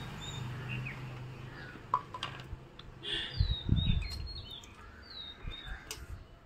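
Small birds chirping: short, high whistled notes that fall in pitch, repeated every second or so. A few low thumps and clicks come about halfway through.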